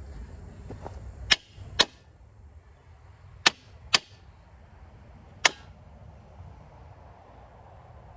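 Five sharp metal-on-metal blows, in two pairs and then a single one, struck to knock a stuck part of an old sawmill's mandrel assembly loose.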